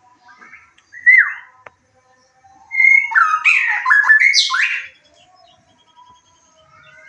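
White-rumped shama (murai batu) singing: one loud note sliding downward about a second in, then a loud two-second run of quickly changing, varied phrases from about three seconds in, over faint chirping in the background.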